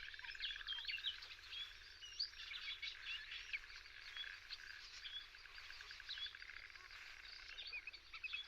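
Several small birds chirping and calling over one another in short, high notes, with a fast buzzy trill underneath that fades out about two seconds in.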